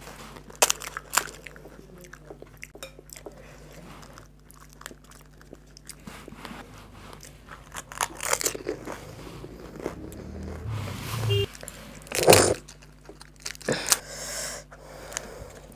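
Crisp, hollow fuchka (panipuri) shells cracking as they are poked open, then crunching and being chewed as whole filled shells are bitten in the mouth. There are a couple of sharp cracks near the start, and the crunching comes in bursts in the second half, loudest about twelve seconds in.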